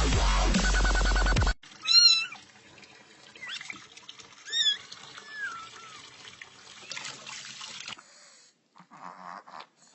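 Loud electronic dance music cuts off about a second and a half in. A domestic cat then meows: one loud meow, two more shorter meows a few seconds later, one of them falling in pitch, and then faint rustling.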